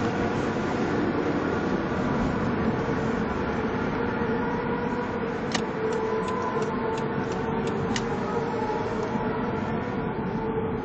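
Steady, loud vehicle rumble with faint steady hums in it, and a few short sharp clicks over a couple of seconds past the middle.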